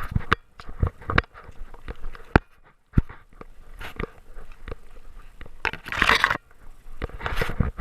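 Irregular knocks, clicks and scrapes from a GoPro strapped to a Great Dane, its housing and mount rubbing and bumping as the dog moves. Two longer rustling bursts come near the end.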